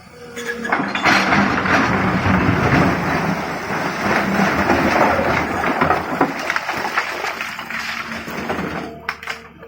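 Loose stone rumbling and clattering in one long spill as the Tata Hitachi 200 excavator's bucket works it, building up about half a second in and fading near the end, with the excavator's engine running steadily underneath.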